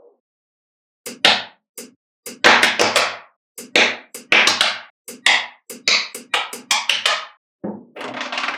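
Small magnetic balls snapping and clicking together: a string of sharp clicks starting about a second in, some in quick clattering runs as several balls join at once.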